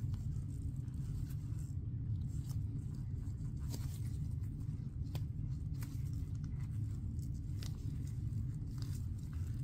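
Faint rubbing and scattered light clicks from hands squeezing a resin-filled silicone mold to work out air bubbles, over a steady low hum.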